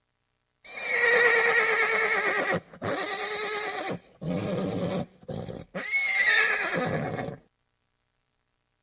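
A horse whinnying: a long, quavering call begins about a second in, followed by shorter, lower calls and a final whinny that cuts off suddenly.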